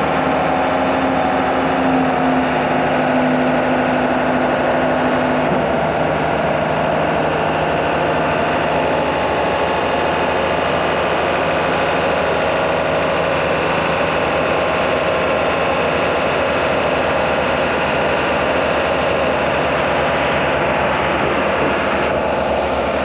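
An engine running steadily, with a high steady whine over it that stops about five and a half seconds in.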